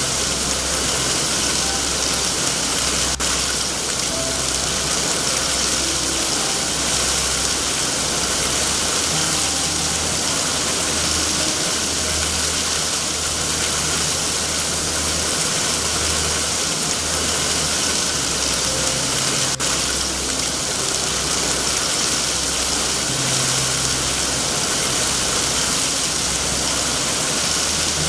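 Steady rain hissing over a low, uneven rumble, with two faint clicks, one a few seconds in and one past the middle.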